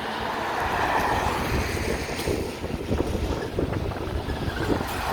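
Wind buffeting the microphone in low rumbling gusts, with road traffic passing in the background.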